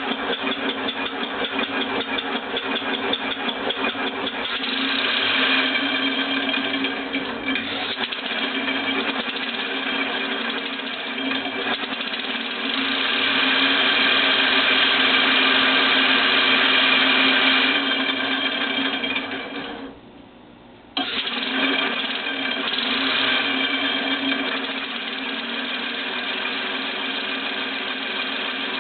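Six-cylinder oval compressed-air engine prototype running on about 110 psi of air, a fast even pulsing from its exhaust and valves. It runs louder for a stretch, stops about two-thirds of the way through, and starts again a second later with no starter.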